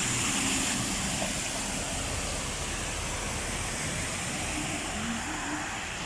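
Heavy rain pouring down, a steady rushing hiss of rain and running water.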